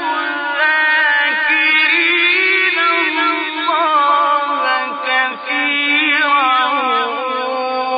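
A man's voice chanting the Quran in long drawn-out tajwid melisma, held notes winding up and down in pitch without a break. The old recording sounds dull, with no highs.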